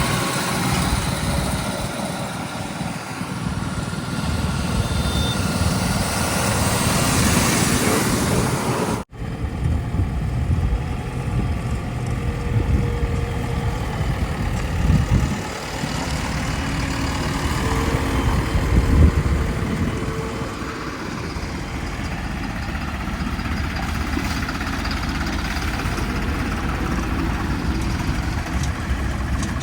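Diesel engines of heavy earthmoving vehicles running steadily, with a sudden brief break about nine seconds in and a couple of short swells later.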